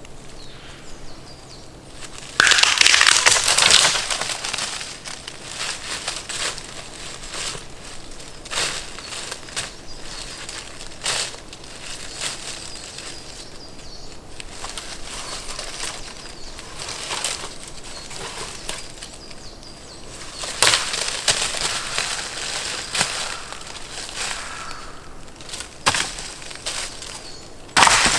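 Intermittent rustling and crunching with many sharp crackles and clicks, with louder bursts of rustling about two and a half seconds in, about twenty seconds in and again near the end.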